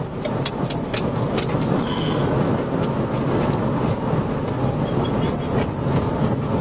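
Steady road, tyre and wind noise from a patrol car running at about 95 mph, heard from inside. A run of sharp clicks comes in the first second and a half.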